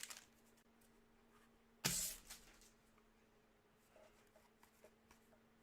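Quiet room with a faint steady hum; about two seconds in, one short burst of noise as trading cards and pack wrappers are handled, followed later by a few faint ticks.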